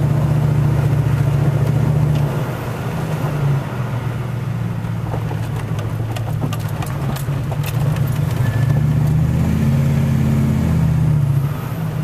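Vehicle engine and cabin noise heard from inside a car on a snowy road, a steady low hum that eases about two seconds in and rises again near the end, with a few light clicks in between.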